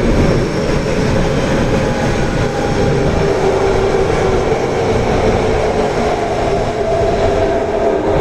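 Osaka Metro Tanimachi Line subway train running through the tunnel: steady wheel and track rumble with a faint motor whine that moves higher in pitch late on.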